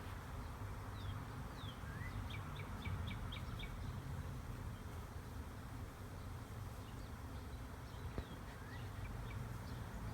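Songbirds chirping in short phrases. A quick run of about six high down-slurred notes comes a few seconds in and a few more chirps near the end, over a steady low background hum.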